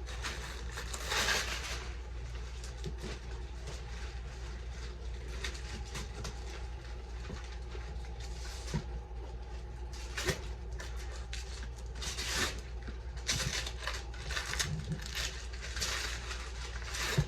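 Wrapping paper and packaging rustling and crinkling in irregular bursts as a gift is unwrapped, over a steady low hum.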